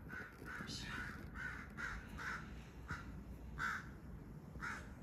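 A bird cawing about ten times in short, separate calls, quick at first and then more spaced out, the loudest calls coming about three and a half and four and a half seconds in.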